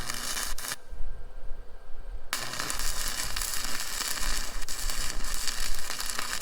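Stick-welding arc crackling and sizzling as weld is built up around a twisted-off bolt stub to heat it for extraction. A short burst of arc stops within the first second, then the arc is struck again about two seconds in and crackles steadily on.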